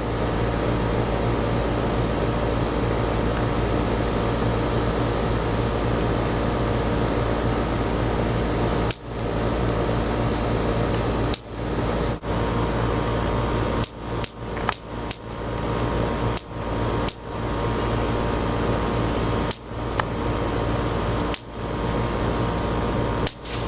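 Electric fly-swatter racquets snapping as flies strike the charged grid. About a dozen sharp cracks come at irregular intervals, with several in quick succession in the middle, over a steady background hum.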